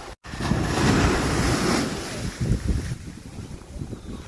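Wind buffeting the microphone in gusts over the wash of surf on a beach, strongest in the first few seconds and easing toward the end. The sound drops out for a split second just after the start.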